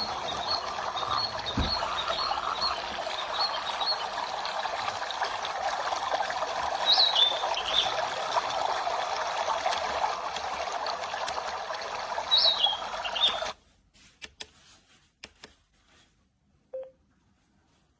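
Recorded nature sound of steady running water with short bird chirps over it; it cuts off suddenly about 13 seconds in, leaving near silence with a few faint clicks.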